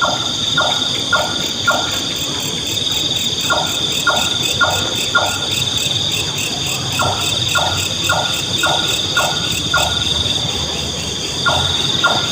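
Nightjar calling: runs of four to six short, knocking notes, about two a second, with pauses of a couple of seconds between runs. Steady high-pitched insect trilling runs underneath.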